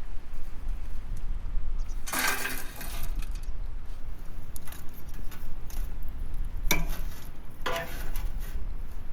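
Kitchenware clinking in three short bouts: one about two seconds in that lasts about a second, a sharp clink near the end, and another bout just after it. A steady low rumble runs underneath.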